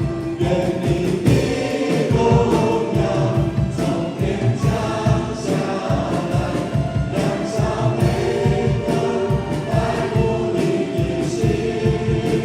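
Worship music: a group of voices singing a praise song together over keyboard and band, with a steady beat.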